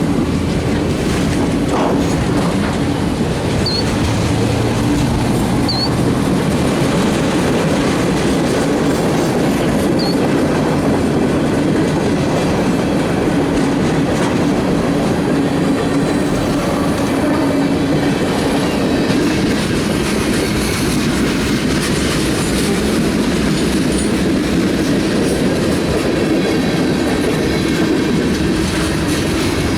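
Norfolk Southern freight train's cars rolling past steadily on the rails, with a few brief high squeaks.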